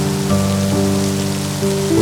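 Steady rain falling, with a slow melody of soft, sustained notes playing over it.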